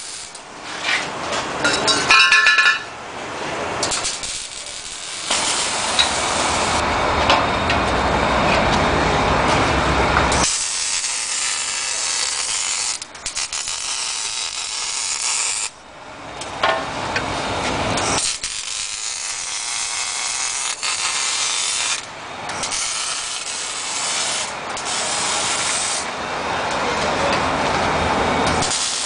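Power tools at work on exhaust pipe: long bursts of harsh hissing noise that stop and start several times.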